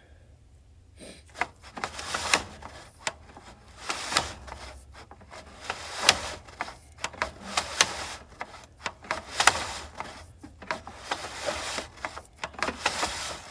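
Sewer inspection camera's push cable being worked through a cleanout by hand: irregular scraping with many sharp clicks and clacks.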